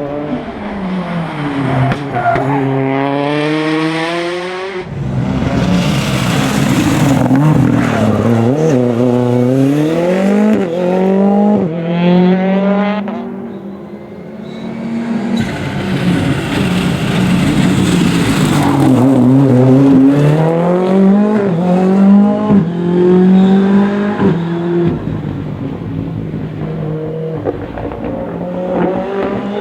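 Rally cars at race speed, engines revving hard and dropping back through repeated gear changes as they pass, with a brief lull in loudness about halfway through.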